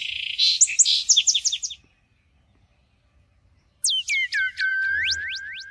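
Birds calling. First comes a quick string of high chirps that sweep downward, lasting a little under two seconds. After a two-second gap, a run of whistled notes slides steeply down, holds a lower note, then sweeps back up.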